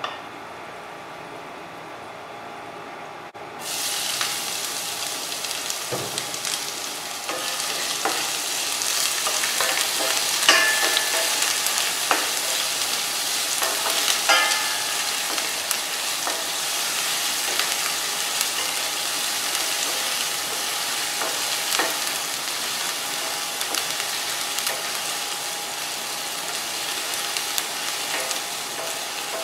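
Diced onion and garlic frying in hot oil in a stainless steel pan: the sizzle starts suddenly about three and a half seconds in as the onion goes in, then hisses steadily while a wooden spatula stirs, knocking against the pan a few times.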